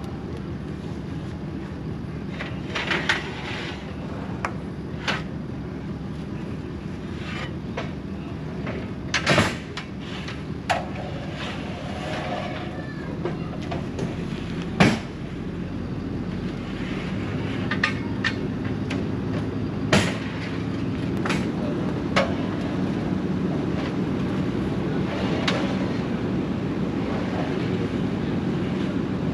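An engine running steadily, its drone picking up a little about halfway through, with a string of sharp, separate clanks and knocks on top.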